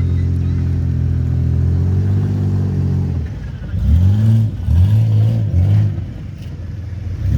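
Off-road rough truck's engine held at steady high revs for about three seconds, then blipped three times in quick succession, each rev rising and falling in pitch.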